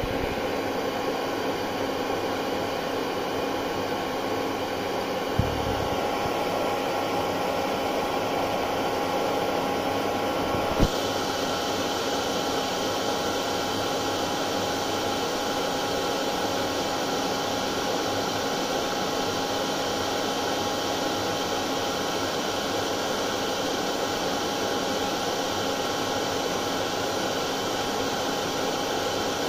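Hair dryer running steadily: an even rush of air with a steady motor hum. A brief click sounds about five seconds in and a sharper one about eleven seconds in.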